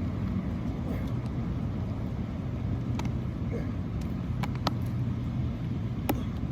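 A steady low rumble of outdoor background noise, with a few sharp clicks: one about three seconds in, a quick pair around four and a half seconds, and one near the end.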